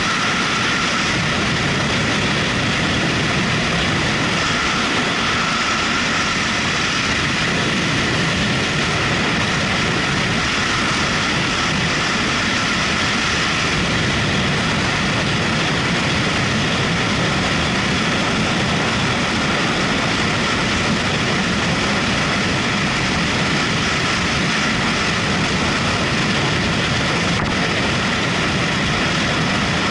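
Motorcycle riding at a steady speed: a steady rush of wind over the microphone with engine and road noise underneath.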